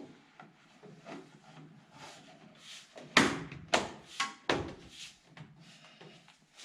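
Hands handling things on a workbench: rustling and rubbing, with a cluster of sharp knocks and clatters around the middle, the loudest a little past three seconds in, and one brief squeak.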